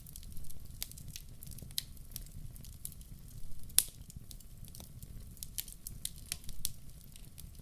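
Logs burning in a fireplace, crackling with irregular sharp pops over a low, steady rumble of the flames; one louder pop about halfway through.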